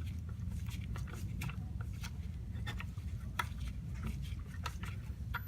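Scattered light clicks and taps of parts and tools being handled during hand assembly work, over a steady low hum.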